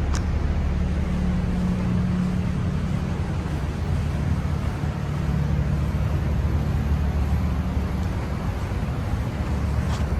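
Drag car's big-block V8 race engine running steadily at idle, loud and deep.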